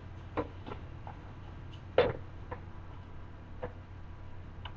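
A spoon stirring rice and lentils in a pot, making a few scattered clicks and scrapes against the pot, the loudest about two seconds in, over a steady low hum.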